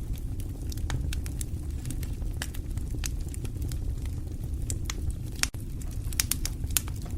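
Wood fire crackling: irregular sharp pops and snaps over a steady low rumble of flames, with a momentary dropout about five and a half seconds in.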